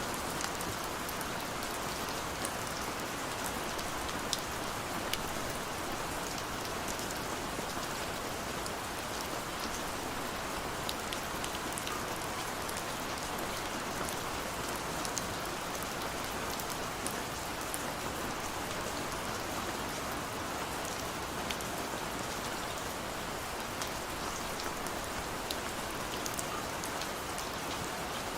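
Steady rain falling, an even hiss with many small drops tapping on a surface throughout.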